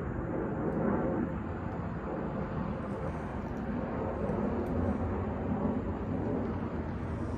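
Carrier Comfort air conditioner condensing unit running: a steady whoosh of the condenser fan over a low hum.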